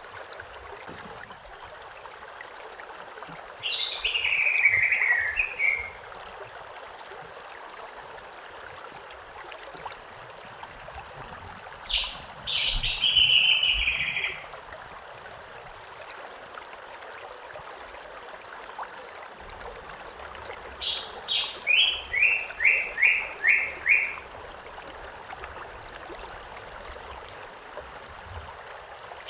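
A small river or stream running with a steady rushing trickle. Over it a songbird sings three short phrases about eight seconds apart: first a falling trill, then a high note leading into a buzzy trill, and near the end a couple of high notes followed by a quick run of about six falling notes.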